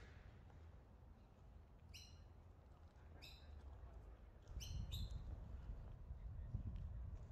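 Birds calling from the trees: four short calls, one about two seconds in, another a second later, and two in quick succession around halfway. Under them is a faint low rumble that gets louder about halfway through.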